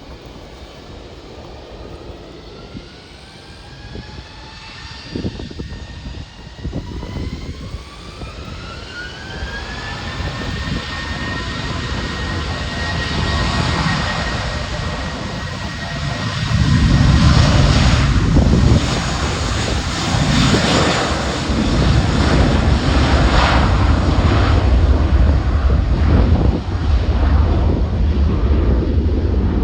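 Jet airliner's engines: a whine rising in pitch over the first ten seconds and then holding steady as the engines spool up, followed from about halfway through by a loud, deep roar that lasts to the end.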